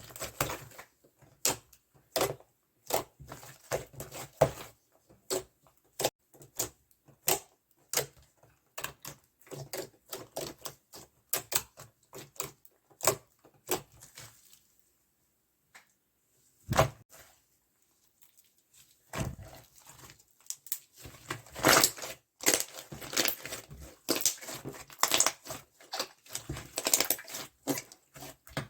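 Slime being squished and poked by hand, making crisp clicking and crackling pops in irregular runs, with a pause of a few seconds around the middle.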